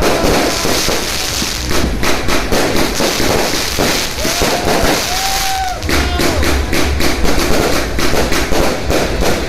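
New Year's Eve fireworks and firecrackers going off densely: continuous crackling with many sharp bangs, and a few short whistling tones near the middle.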